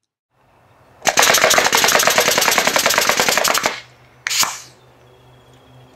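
Pneumatic nail gun firing nails into wood in rapid trigger fire: a fast, even string of sharp shots for nearly three seconds, then one more sharp shot with a short fading hiss.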